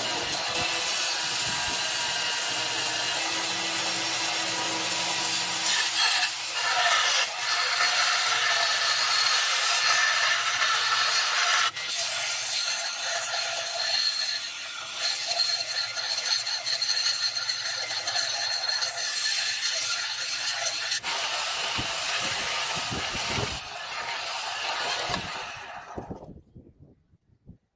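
A workshop tool cutting or rasping into material: a steady harsh scraping noise that changes character at two abrupt breaks and stops about 26 seconds in.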